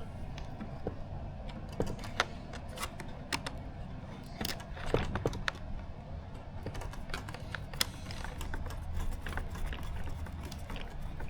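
Irregular small clicks and taps of hands working small screws and plastic parts of an RC plane kit, with no steady rhythm.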